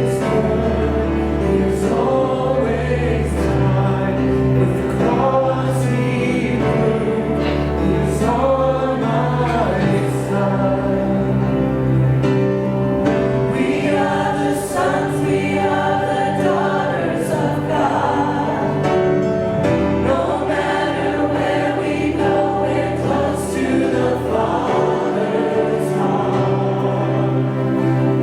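Choir singing a gospel-style worship song over sustained low accompaniment, continuous and steady in level.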